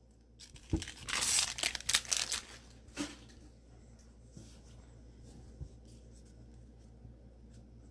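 Crinkling and tearing of a foil trading card pack wrapper in a burst of about a second and a half, with a couple of clicks around it. After that only a faint hum is left.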